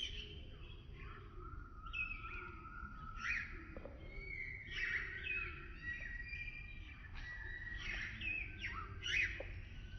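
Several wild birds singing and calling over one another in a woodland chorus: clear whistled notes and short sliding phrases, repeated every second or so. A steady low rumble runs underneath.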